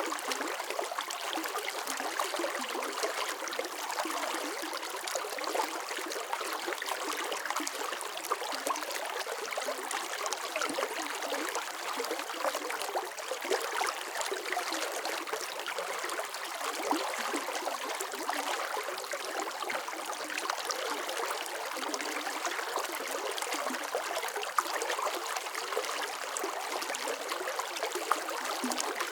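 Water flowing steadily in a stream, a continuous bright splashing and trickling with no deep rumble.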